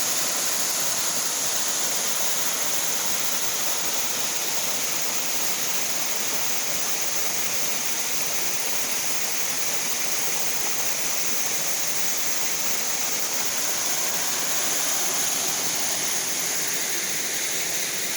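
A waterfall rushing: a steady, unbroken hiss of falling water that stays at the same level throughout.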